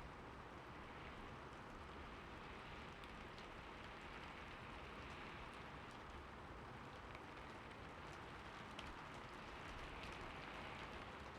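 Steady, quiet rain: an even hiss of falling rain, with a few single drops ticking here and there.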